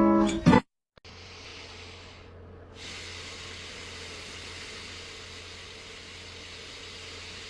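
A moment of strummed acoustic guitar music that cuts off, then after a brief silence a steady hiss with a faint low hum underneath.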